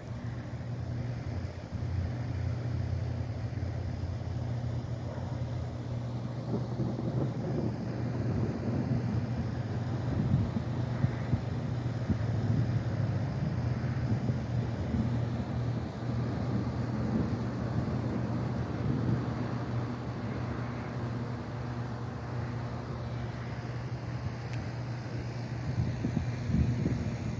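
Distant rolling thunder from a thunderstorm: a continuous low rumble of one boom running into the next, swelling through the middle and again near the end.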